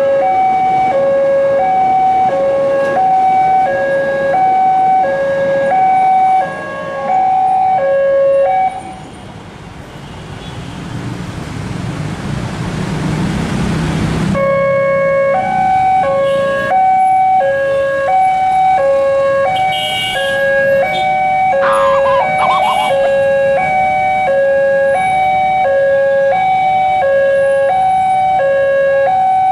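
Railway level-crossing warning alarm sounding a steady two-tone signal that alternates between a low and a high tone, about one pair a second. It is interrupted for about five seconds by a rising rumble that cuts off abruptly, and then the alarm resumes.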